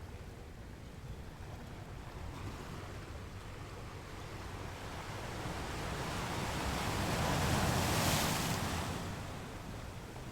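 Ocean waves on a beach: a steady low surf rumble, with one wave building and breaking into a broad wash about eight seconds in, then receding.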